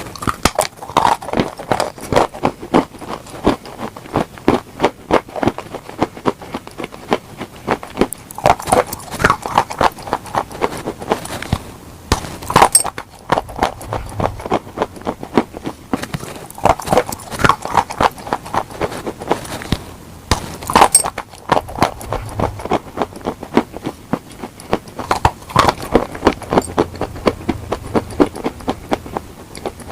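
Close-miked chewing of crunchy food: sharp, rapid crunches a few times a second, coming in runs of several seconds with short lulls between.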